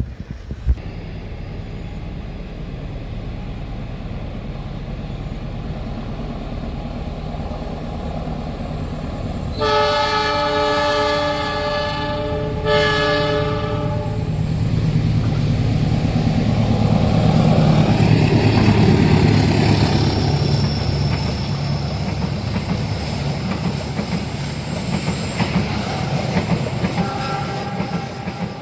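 Train horn sounding two blasts, a longer one about ten seconds in and a shorter one just after. The train then comes past, its rumble and wheels clattering over the rail joints building to loudest a few seconds later and carrying on as the cars go by.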